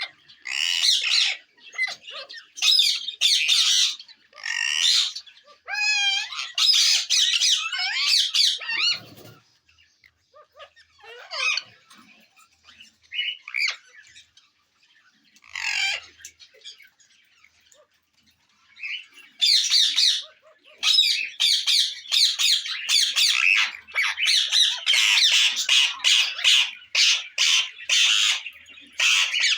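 Rose-ringed (ringneck) parakeets squawking with harsh, shrill calls. The calls come in bursts, thin out to occasional calls through the middle, then run almost without a break for the last third.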